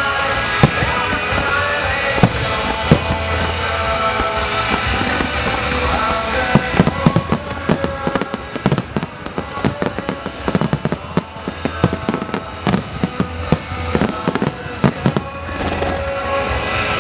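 Aerial fireworks bursting over music that accompanies the show. A few single bangs come early, then a rapid run of bangs and crackling from about seven to fifteen seconds in.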